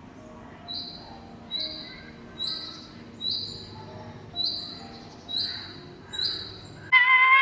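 A bird repeating a short, high, steady whistled note about once a second, seven times. Near the end a louder, lower animal call with several stacked tones breaks in.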